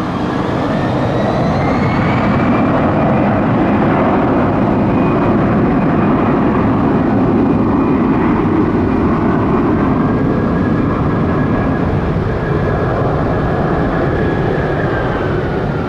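Airbus A320-200 jet engines at takeoff power: a loud, steady jet noise, with a whine that rises in pitch over the first two seconds, holds, and falls away near the end as the airliner goes by.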